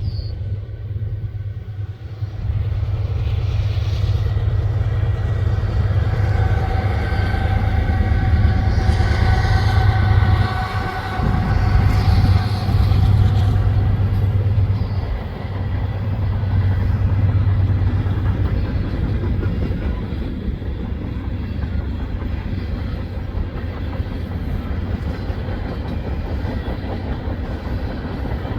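Two Norfolk Southern GE AC44C6M diesel-electric locomotives with V16 engines passing, loudest from about six to fourteen seconds in, with several steady tones over the engine rumble. A steady rumble of a unit train of tank cars rolling by follows.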